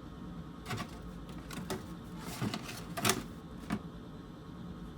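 A handful of short knocks and clatters, the loudest a little past the middle, over a low steady hum.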